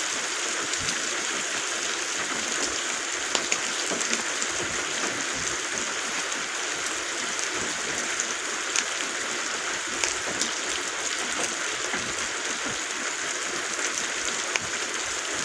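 Steady rain on the roof overhead, an even hiss with scattered sharper drip taps here and there.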